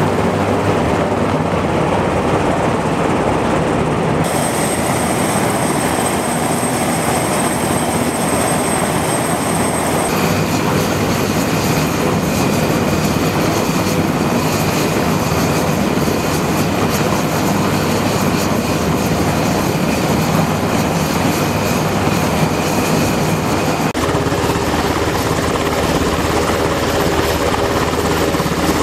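Helicopter running loudly and steadily: a dense rushing rotor-and-engine noise with thin high steady tones in parts. The sound changes character abruptly about 4, 10 and 24 seconds in.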